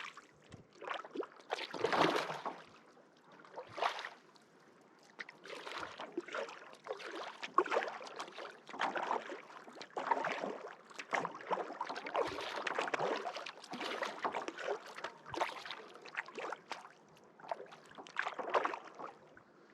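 Kayak paddle strokes dipping and splashing in lake water, with water dripping off the blades between strokes, in an uneven rhythm of roughly one stroke every one to two seconds.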